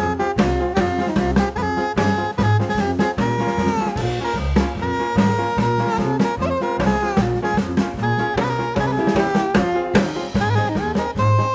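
Background music: an upbeat jazzy tune with saxophone-like horn lines over a walking bass and drum kit.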